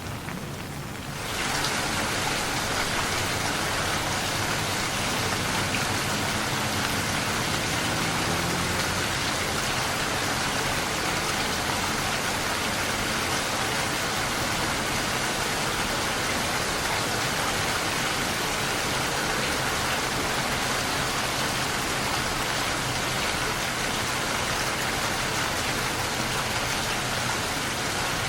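Steady rain falling, an even hiss of drops that swells louder and brighter about a second in and then stays constant.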